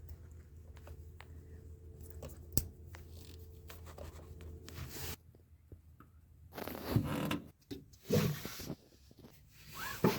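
A faint steady hum that cuts off abruptly about five seconds in, then louder irregular rustling and scraping.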